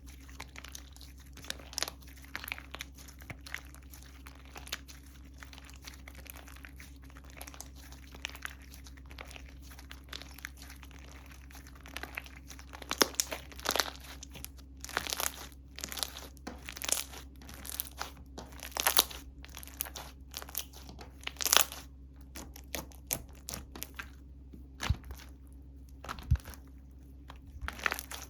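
Slime being squeezed and stretched by hand, giving off crackling clicks and small pops, faint at first and louder, sharper snaps from about halfway through. A steady low hum lies underneath.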